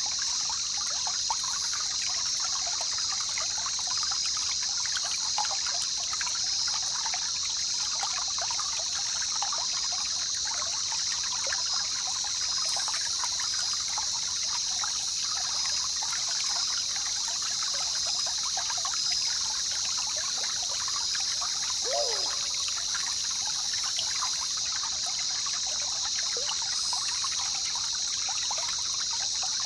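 A jungle river trickling and splashing steadily, with a constant high-pitched drone over the water. A short falling whistle comes about two-thirds of the way through.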